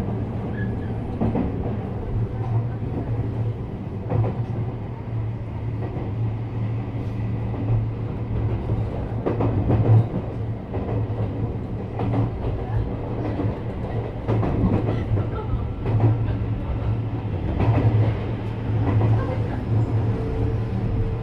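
JR West 321 series electric train running at speed: a steady low rumble with irregular clicks and knocks of the wheels over rail joints. A steady whine comes in near the end.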